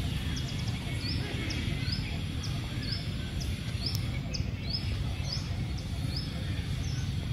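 A bird calling a short rising chirp over and over, about twice a second, over a steady low rumble.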